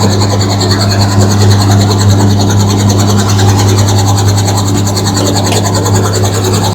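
Helicopter running: a loud, steady low drone with a fast, even pulsing over it.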